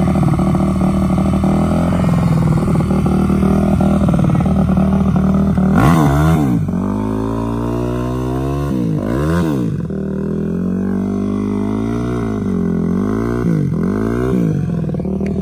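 Vehicle engine running steadily, with its pitch swept up and back down several times around the middle.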